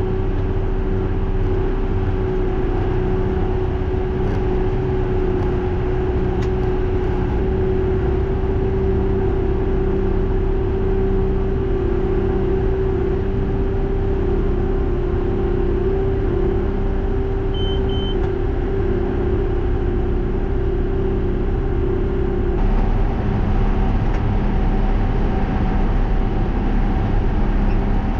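Tractor engine running steadily under load while baling hay, a constant drone. Two short high electronic beeps sound about two-thirds of the way through.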